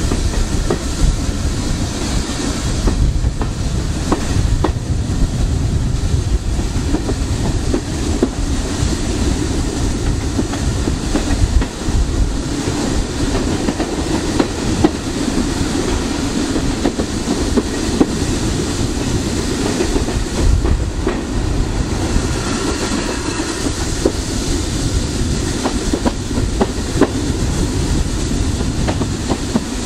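A heritage train's passenger carriages running along the line, heard from an open carriage window: a steady rumble of wheels on rail, with sharp clicks now and then as the wheels cross rail joints.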